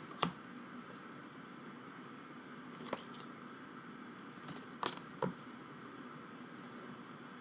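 Thin paper photo cards being handled, giving a few light clicks and taps: one just after the start, one near the middle, and two close together a little later.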